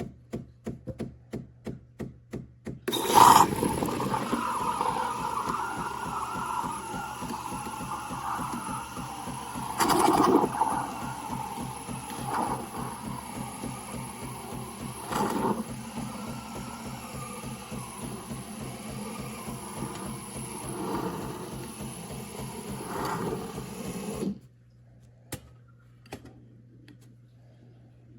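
Fully automatic espresso machine at work. First comes a run of quick, regular clicks, about three a second. Then loud mechanical whirring and pumping with a fine steady pulse runs for about 20 seconds and cuts off suddenly.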